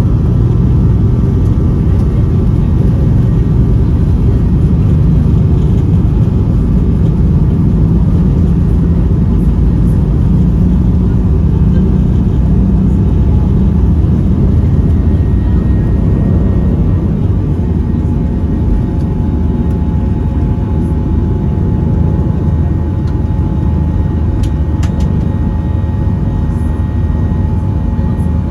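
Boeing 737-800 cabin noise: a steady, loud low rumble of the jet engines and airflow, with a faint steady whine above it. The level eases slightly about two-thirds of the way through.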